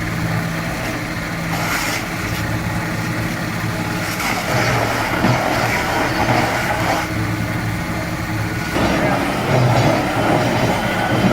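Large engine of heavy machinery running steadily under load, with a noisy mechanical layer over it.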